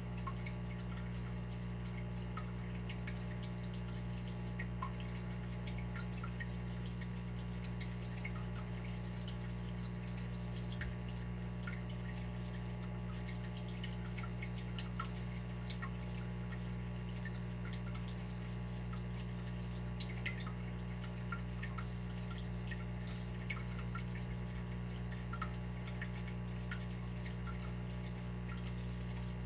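Water running and dripping, with many small scattered drips and plinks over a steady low hum.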